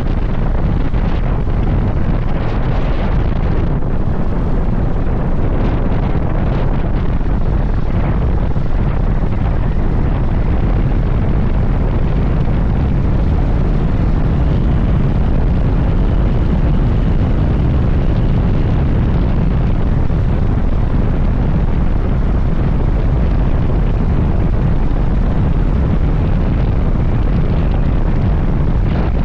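Suzuki GSX-S1000GT inline-four motorcycle engine running while riding, mixed with steady wind rush on the microphone.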